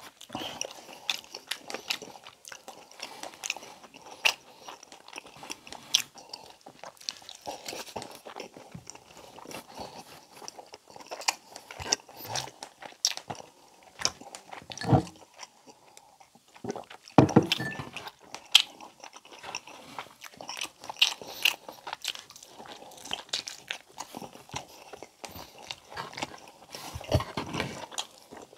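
Close-miked chewing of braised pork humba and rice: irregular wet smacking and clicking mouth sounds, with a couple of louder, deeper knocks about halfway through.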